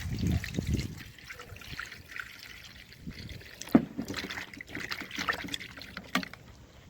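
Water trickling and splashing, with scattered small clicks and one sharp knock a little before four seconds in.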